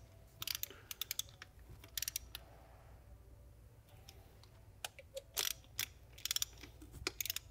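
Socket ratchet clicking in several short runs of rapid clicks as the supercharger mounting nuts are run down.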